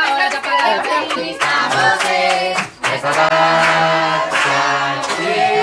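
A group of voices singing together, with hand clapping.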